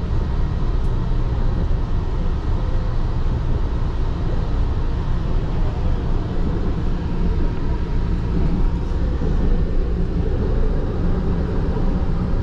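Driverless light-rail train running, heard from inside the carriage: a steady rumble with a faint whine above it.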